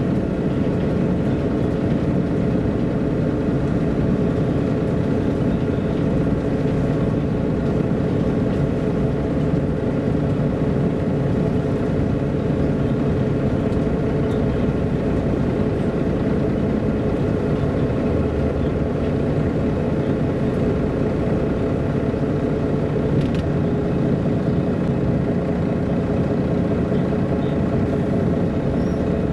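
Steady diesel engine and drivetrain drone of a 1999 MAN A23 NG313 articulated city bus, heard from inside the cabin while it drives, with road noise; the engine's pitch shifts slowly as it runs.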